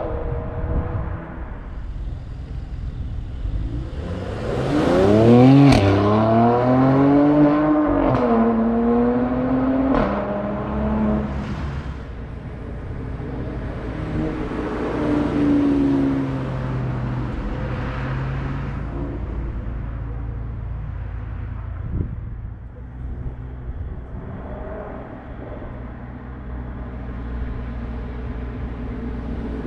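W206 Mercedes-AMG C43's turbocharged 2.0-litre four-cylinder engine through its optional sport exhaust, revved hard about five seconds in, with a few sharp cracks as the revs fall. A second, smaller rev follows a few seconds later, then the engine settles back to a steady idle.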